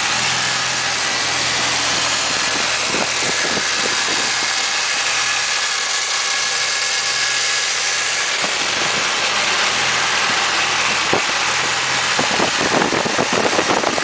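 A Chevrolet 396 big-block V8 idling steadily and evenly: a freshly rebuilt engine with a smooth idle.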